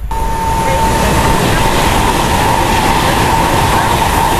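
Electric multiple unit train running along the line, a loud steady rushing noise with a steady high whine over it.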